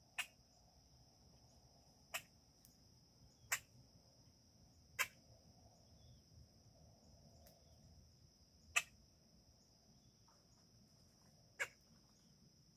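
About six sharp single clicks at uneven intervals of one to four seconds, over a faint steady high-pitched whine and low background noise.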